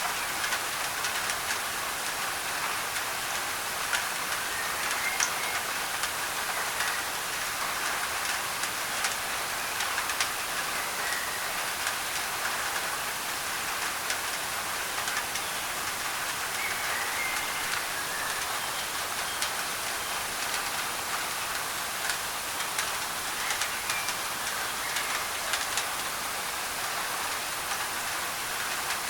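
Steady rain on a thin tin roof, with individual drops ticking sharply on the metal, blended with an even white-noise hiss.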